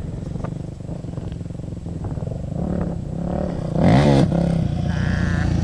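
Motocross bike engine running, with a quick, hard rev about two-thirds of the way through, its pitch rising sharply and then falling back.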